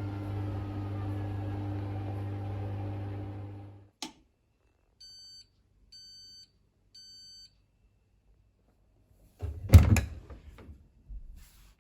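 Hoover Rapid 44 washing machine: its steady motor or pump hum stops a few seconds in with a click, followed by three short electronic beeps about a second apart, the end-of-cycle signal. A loud clunk and rattle comes about ten seconds in, with a smaller knock near the end.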